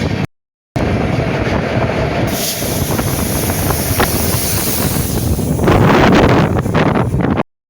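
A train running past at close range, its wheels knocking over the rail joints among a steady rumble and hiss, with some wind on the microphone. The sound cuts out completely for a moment twice, once just after the start and once near the end.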